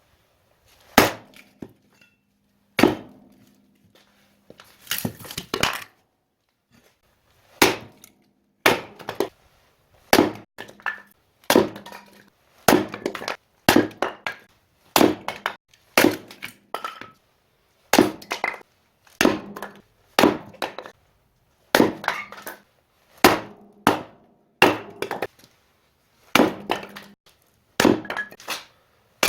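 Axe strikes splitting firewood: a long run of sharp wooden cracks about once a second, many followed closely by a second, lighter knock.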